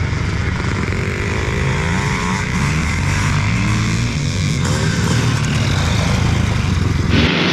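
Motocross bike engines revving up and down as the bikes race around the track, with an abrupt change in the sound about seven seconds in.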